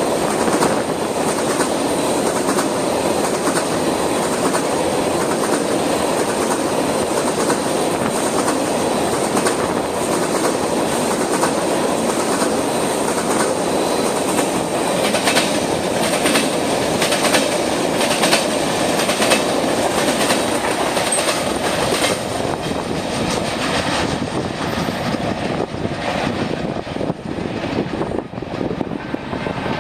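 Freight train of oil tank cars rolling steadily past, a continuous rumble of wheels on rail with rapid clicks as the wheels cross rail joints.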